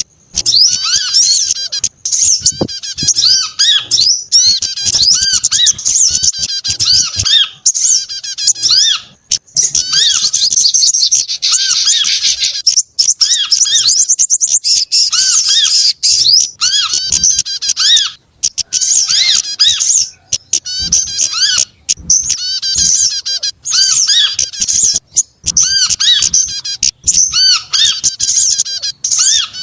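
Bird-lure recording mixing the calls of small birds (sogok ontong, kemade, korlap and prenjak): dense, overlapping high-pitched chirps and twitters, with a short lower arched call repeated again and again and brief gaps between phrases. It is a lure track played to draw small birds down.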